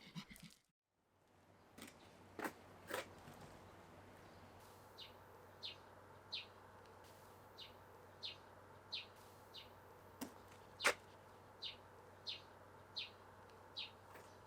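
A small bird repeating one short, high, downward-slurred call note over and over, about every two-thirds of a second, with a few sharp clicks in between.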